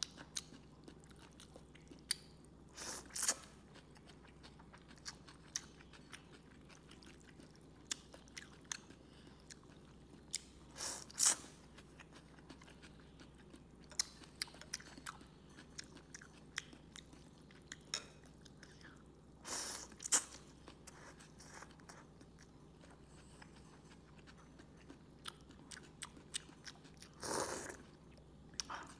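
A person eating Vietnamese rice noodles: frequent small chewing and crunching clicks, with four louder, longer noisy sounds spaced several seconds apart.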